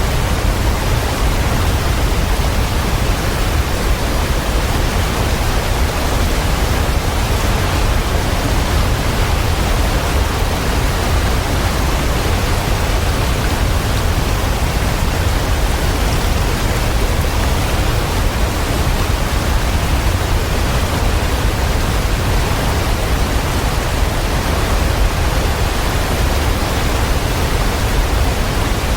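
Waterfall: a steady, unbroken rush of falling water, deep and even, with no changes in level.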